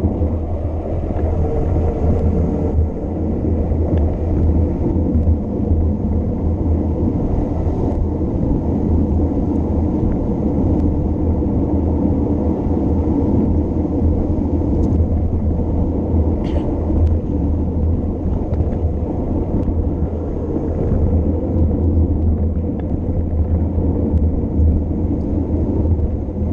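Wind buffeting the microphone while riding a bicycle downhill: a steady low rumble.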